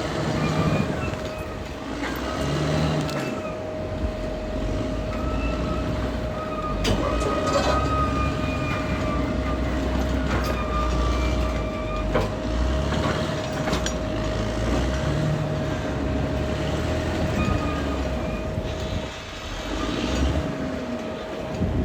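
Caterpillar D6R XL crawler bulldozer working: its diesel engine runs steadily while the steel tracks clank and squeal, with scattered sharp knocks and a steady high whine throughout.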